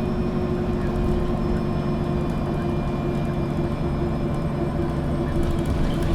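MAN NG 313 CNG articulated city bus heard from inside while under way: the natural-gas engine runs at a steady speed with a low drone and a steady hum. Faint clicking begins near the end.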